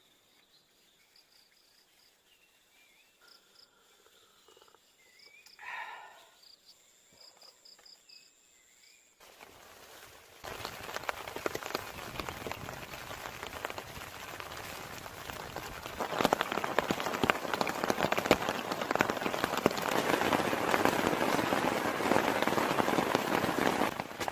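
Faint high chirping in a quiet forest, then heavy rain starts suddenly about nine seconds in and grows heavier, a dense hiss of many drop hits.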